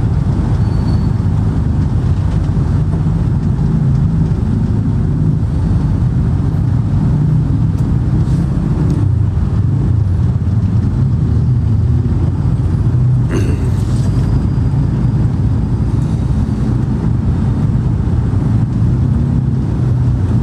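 Steady low rumble typical of a moving car heard from inside, with one brief click about 13 seconds in.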